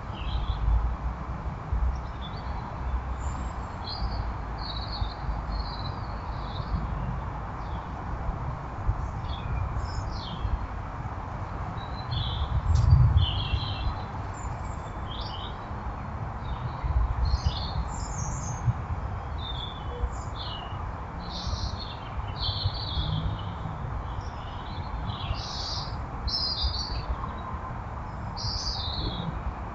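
Small garden birds chirping, short high calls repeated at irregular intervals, over a steady hiss and low rumble with an occasional low thud, the loudest about halfway through.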